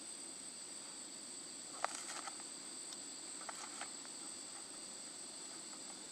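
Steady high-pitched drone of insects in the forest, with a cluster of light clicks and knocks about two seconds in and a few more around three and a half seconds.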